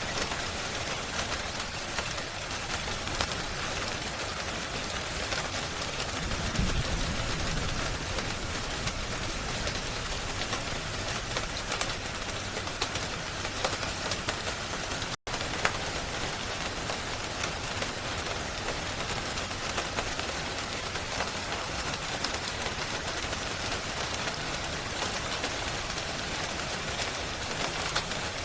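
Steady rain hiss with many fine crackles and patters throughout, and a brief low rumble about a quarter of the way in. The sound cuts out for an instant about halfway through, like a loop seam.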